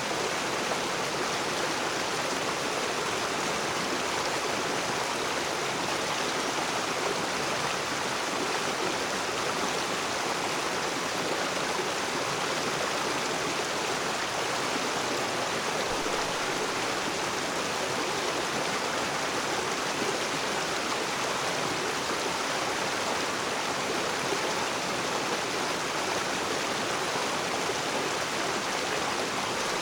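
Water of a rocky river rushing and splashing over stones, a steady, even rush with no breaks.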